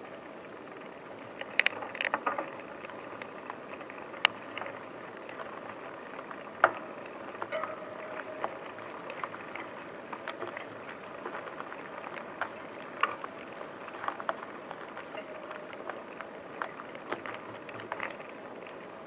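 Bicycle rolling over rough forest ground, with a steady rolling noise and frequent sharp clicks and rattles from the bike and the ground.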